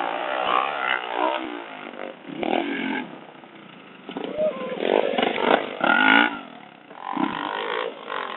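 Motorcycle engines revving, the pitch rising and falling in bursts, with short lulls about halfway through and near the end.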